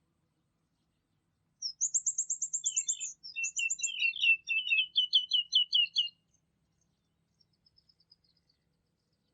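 Songbird singing: a fast, high trill of about a dozen notes, then quick repeated chirping notes a little lower, lasting about four seconds in all. A few faint, high notes follow near the end.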